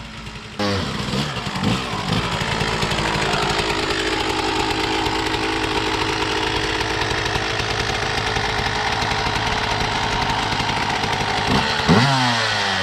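Yamaha YZ125 two-stroke dirt bike engine revving hard as it pulls away, then held at high revs for several seconds, with pitch swings again near the end.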